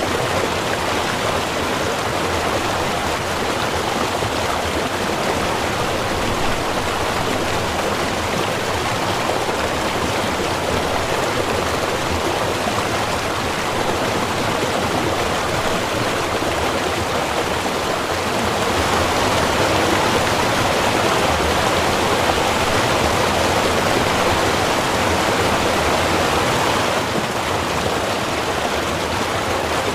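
Small river or stream running over rocks: a steady rushing and splashing of water that swells a little about two-thirds of the way through.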